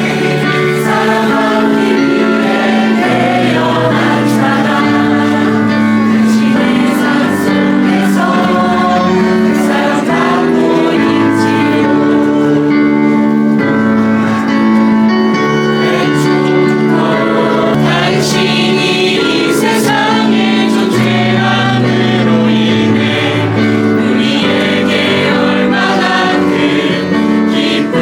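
A group of voices singing a Christian worship song with instrumental accompaniment, sustained notes over a bass line that moves every second or two.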